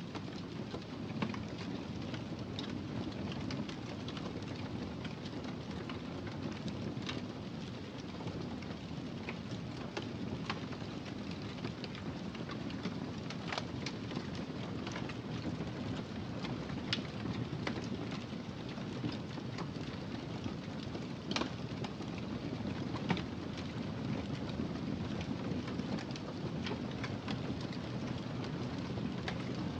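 Wood fire in a fireplace burning with a steady low rumble and hiss, broken by irregular sharp crackles and pops every second or so.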